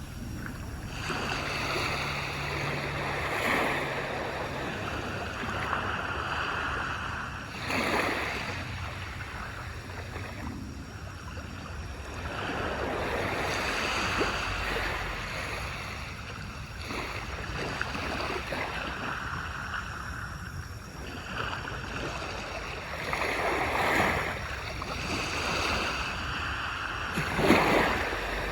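Small waves breaking and washing up a beach, a steady rushing surf with the sharpest breaks about a third of the way in and near the end.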